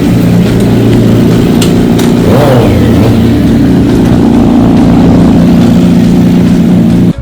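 Motorcycle engine running steadily at speed, with a brief glide in pitch about two and a half seconds in. It cuts off abruptly at the very end.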